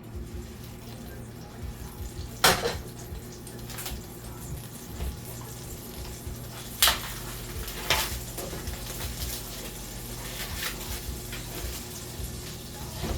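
Kitchen clatter of dishes and utensils being handled: three sharp clanks, about two and a half, seven and eight seconds in, and a few lighter knocks, over a steady low hum.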